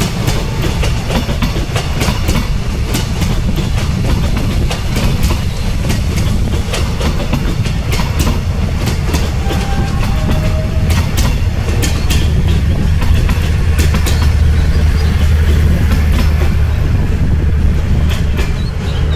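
Passenger train coaches rolling past on the track, wheels clicking over the rail joints over a steady low rumble.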